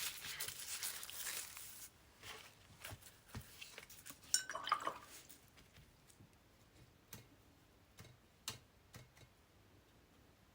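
Hands working with paper and painting supplies at a table: a rustle for about two seconds, then scattered light taps and a short ringing clink about four seconds in, followed by a few faint ticks.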